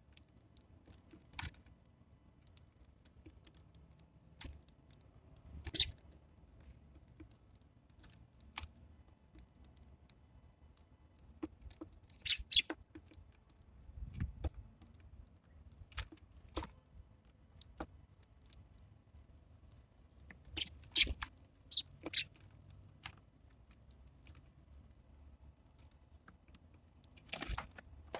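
Birds pecking and cracking seeds on a wooden bird feeder: irregular sharp taps and clicks, some in quick clusters.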